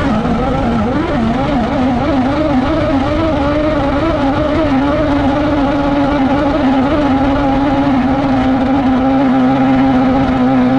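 Sierra RX3 rallycross car's engine under way, its revs rising and falling quickly for the first few seconds, then holding a steady, even pitch in the second half.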